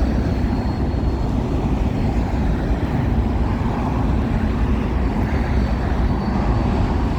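Freight train of empty grain hopper cars rolling past, its wheels on the rails making a steady, deep rolling rumble.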